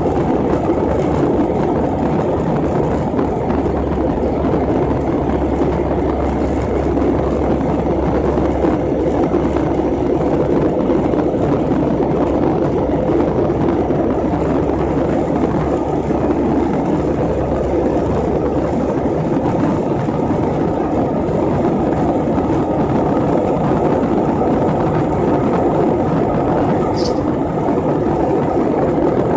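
Steady, unbroken drone of an airliner cabin in flight: jet engine and air noise with a low hum underneath. A short high blip sounds near the end.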